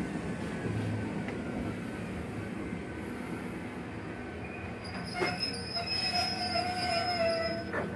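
Ichibata Electric Railway train running on the rails with a steady rumble. From about five seconds in, a high-pitched metallic wheel squeal sets in alongside a lower wavering squeal and a few sharp knocks, then fades near the end.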